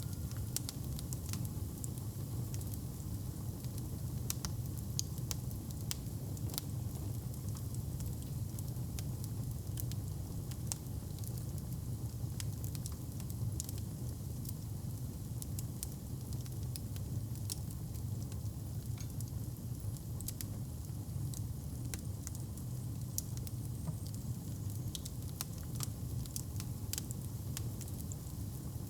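Wood fire crackling in a fireplace: frequent short, sharp crackles and pops over a steady low rumble.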